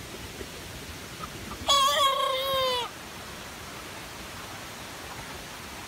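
A Red Ranger broiler cockerel gives one odd, strained crow lasting about a second, beginning almost two seconds in and sagging in pitch at the end: the weird crow of a broiler nearly at processing size.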